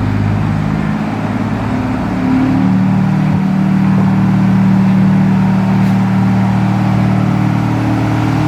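Diesel train engine running loudly, its pitch stepping up about two and a half seconds in and then holding steady.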